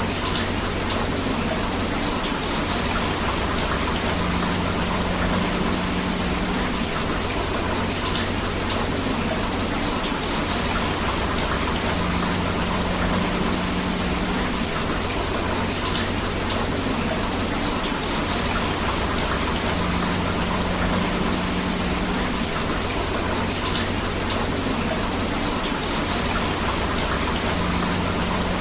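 Steady rain together with flowing river water, an even rushing hiss with no break. A faint low tone comes and goes about every eight seconds.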